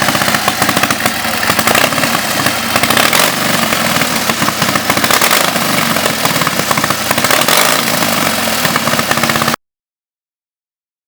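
Motorcycle engine running loudly with rapid, even firing pulses. It cuts off abruptly after about nine and a half seconds.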